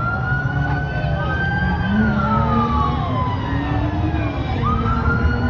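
Police siren wailing: a tone that climbs and then slowly falls, starting its rise again near the end. Under it are low vehicle and road rumble and scattered voices.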